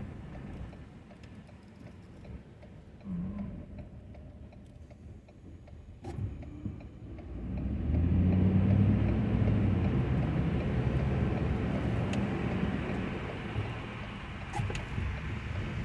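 Ford F-250 pickup's engine running quietly, then about halfway through picking up and running louder and steady, with a few sharp clicks.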